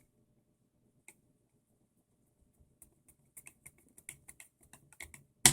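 Light clicks and taps of small plastic and metal parts of an RC buggy being handled and fitted, a scattered run of them in the second half, with one sharp click near the end.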